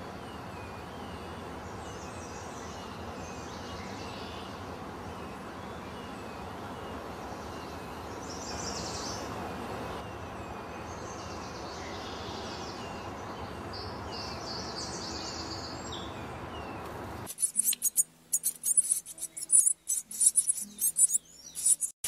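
Scattered bird chirps over a steady outdoor hiss. About 17 seconds in the sound cuts sharply to loud, rapid, very high-pitched chirping from European goldfinches at their nest, where the adults are feeding the nestlings.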